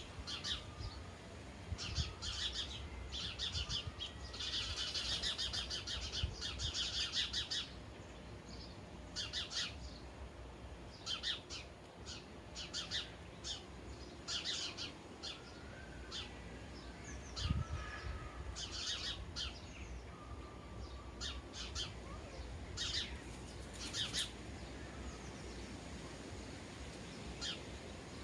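Sparrows chirping: short repeated chirps in irregular clusters, with a dense run of overlapping chirping a few seconds in.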